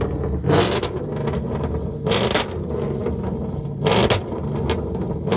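A car engine rumbling at low revs, broken by three loud, sharp bangs spaced about a second and a half to two seconds apart.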